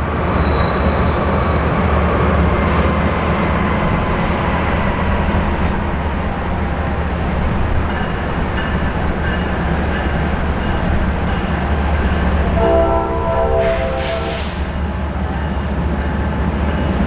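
Diesel locomotives of a BNSF freight train running with a steady low rumble. About thirteen seconds in, a train horn sounds in short blasts.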